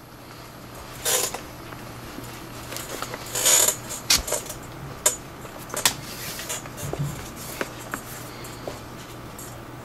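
Leather lace being pulled and worked through a catcher's mitt, the leather creaking and rustling, with several sharp clicks and a longer rustle about three and a half seconds in.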